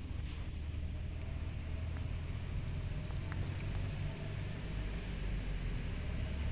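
A steady low rumble with a faint steady hum above it.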